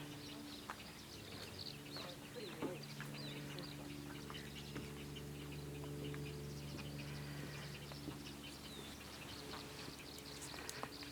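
Many birds calling at once, a dense chorus of short high chirps and calls overlapping one another over a steady low hum.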